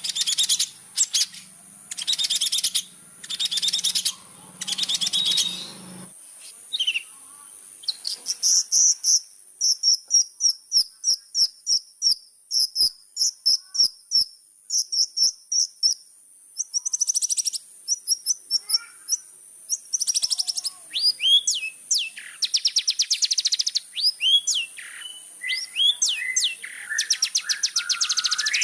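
Long-tailed shrike (cendet) singing a long, varied song: harsh grating notes first, then a fast run of short high chips, then whistled, falling phrases from about two-thirds of the way in. A steady high-pitched tone runs underneath throughout.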